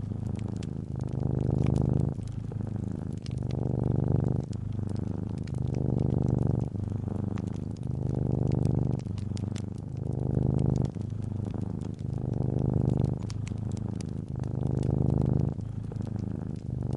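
Domestic cat purring, a low rumble that swells and eases about every two seconds with each breath, over the faint crackle and snaps of a wood fire.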